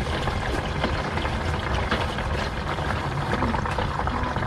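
Thin 0W-20 synthetic engine oil pouring from the open oil-pan drain hole of a Subaru Ascent and splashing steadily into a drain bucket.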